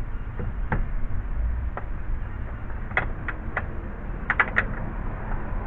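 Light clicks and clinks of small metal parts and hand tools being handled: single taps spaced about a second apart, then a quick cluster of three or four near the end, over a low steady rumble.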